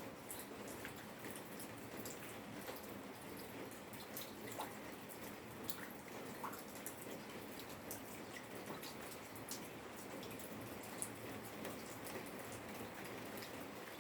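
Rain falling in a yard: a steady patter with many scattered, irregular drops and drips ticking on nearby surfaces.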